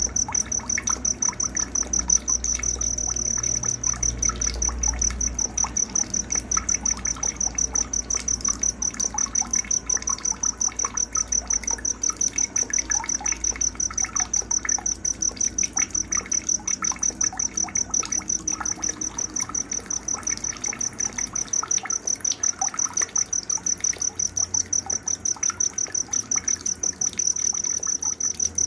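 A cricket chirping at a high pitch in an even, unbroken pulse of about three to four chirps a second, over faint scattered bird chirps and a low rumble in the first few seconds.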